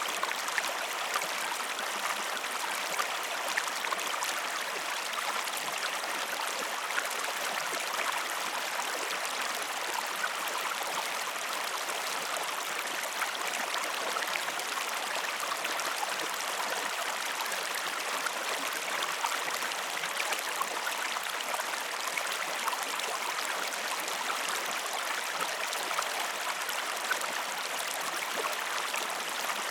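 Flowing water running steadily with an even rush, small ticks scattered through it.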